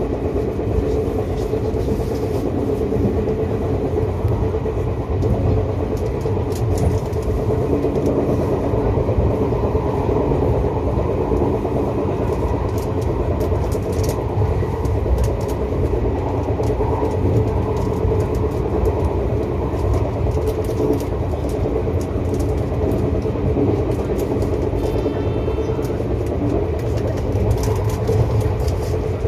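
Izu Kyuko 2100 series electric train heard from inside its leading car while running: a steady low rumble of wheels on rail and running gear, with scattered short clicks.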